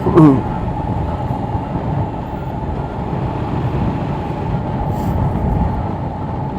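Yamaha R7 ridden at speed: steady wind and road rumble on the onboard microphone, with the engine running underneath. A short sound falls in pitch right at the start.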